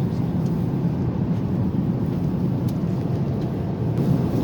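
Steady low rumble of airliner cabin noise, engine and airflow, heard inside the cabin of an Airbus A350-900.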